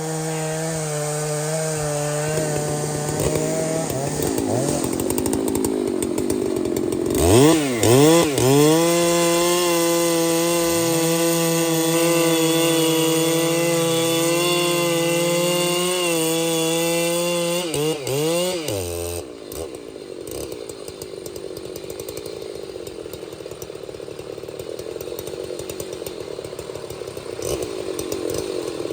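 Chainsaw engine running, revved up with a few throttle blips about seven seconds in and held at high revs for about ten seconds, then the revs fall and the engine tone stops about nineteen seconds in, leaving a steady hiss.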